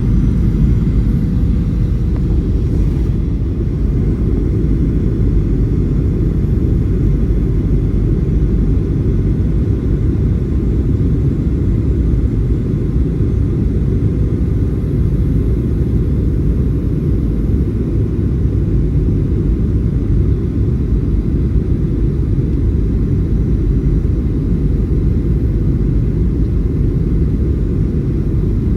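Steady low rumble of a Boeing 737-800's engines and airflow heard inside the passenger cabin, with a faint steady hum on top and no change in level.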